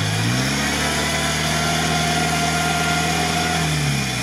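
Modified UAZ off-roader's engine held at high revs, then dropping back near the end, as the truck sits stuck in a deep mud pit.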